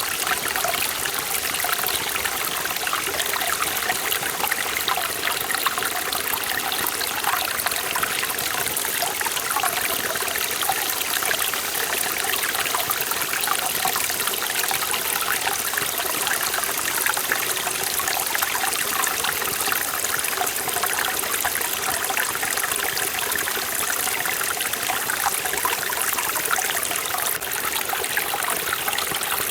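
Forest valley stream flowing steadily over rocks, a constant rush of water with fine splashing and trickling.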